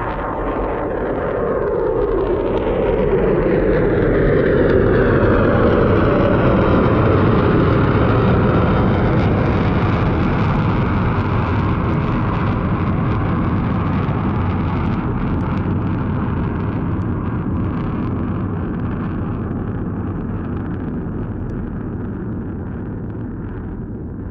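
Military jet aircraft flying past with a loud, continuous jet roar. It builds over the first few seconds with a whine that falls in pitch as the jet passes, then slowly fades.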